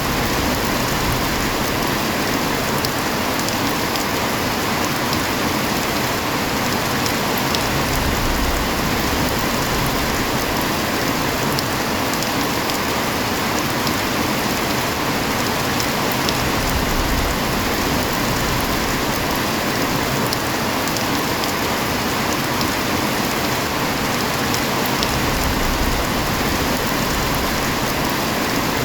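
Heavy rain falling steadily, a dense even hiss with faint ticks of individual drops.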